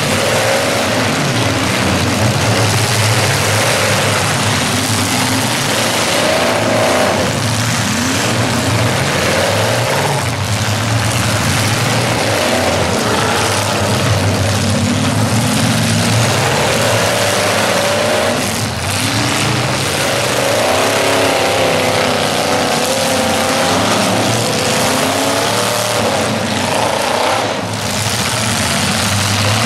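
Several demolition derby cars' engines revving hard at once, their pitch repeatedly climbing and falling as the cars push and ram one another, over a constant loud din.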